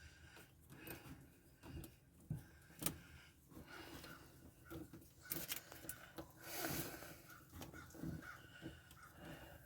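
Faint, irregular clicks and rustles of hands working stripped electrical wires, twisting them together to splice them under a wire nut.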